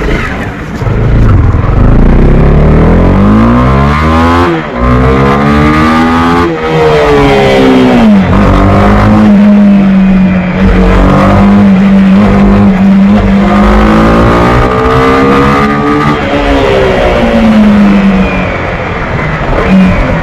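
Honda CB300R's single-cylinder engine under hard acceleration through the gears: revs climb, drop sharply at a shift about four and a half seconds in, climb again, then hold steady at cruising speed for several seconds before easing off and picking up once more near the end.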